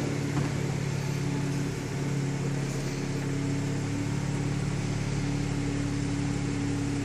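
Steady low hum of a BMW 435i Convertible standing with its turbocharged straight-six running while its retractable hardtop folds down.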